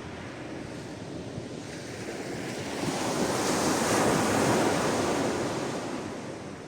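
Sea waves washing onto the shore: a steady wash of surf swells as one wave breaks about three seconds in, then fades back to a low rush.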